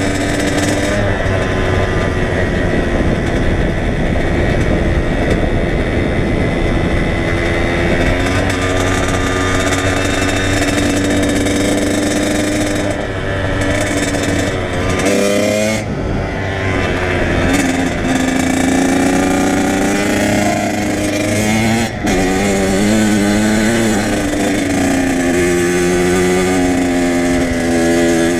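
Kawasaki KX100 two-stroke dirt bike engine running while riding, its pitch rising and falling again and again as the throttle opens and closes, with brief dips in the middle.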